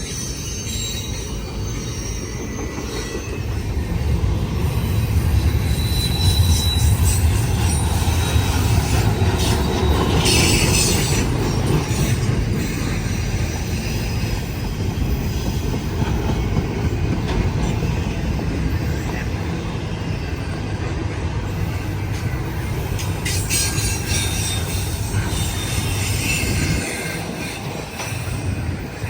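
A train rolling past: a steady rumble of locomotive and rail cars on the track that grows louder a few seconds in, with the wheels squealing briefly now and then.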